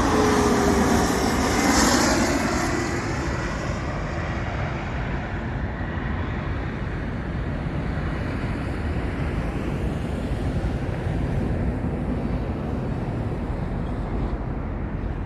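Airplane passing close by: its engine noise is loudest about two seconds in, with a whine sliding down in pitch, then fades to a steady, quieter rumble.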